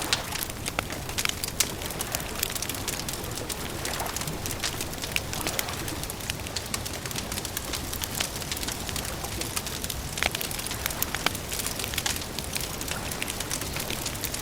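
Campfire crackling: a dense, irregular run of sharp pops and snaps over a steady hiss of burning wood.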